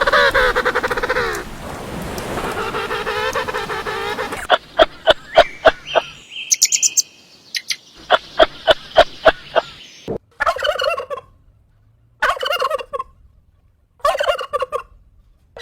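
Turkey gobbling repeatedly in short pitched calls, with a run of sharp rapid clicks and a few high chirps midway.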